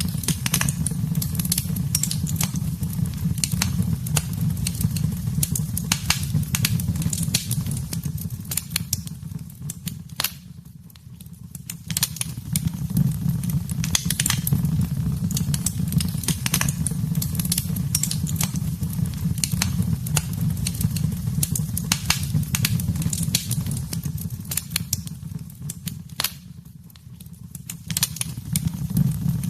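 A wood fire in a fireplace crackling and popping with quick, irregular snaps over a low steady rumble of flames. The sound dips away briefly twice, about a third of the way in and near the end, before the crackling picks up again.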